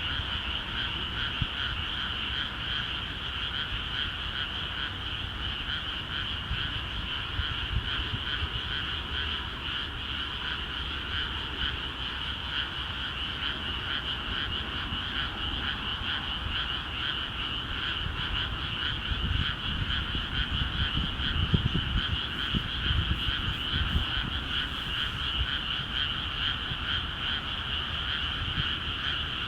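A dense, unbroken chorus of many frogs calling together in flooded rice paddies. Some low rumbling rises under the chorus about two-thirds of the way through.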